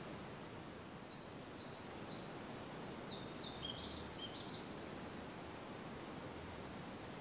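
Wild songbirds singing. First comes a series of short high notes, about two a second and growing louder. About three seconds in, a rapid jumble of high chirps follows and lasts about two seconds. Under it runs a steady low background hiss.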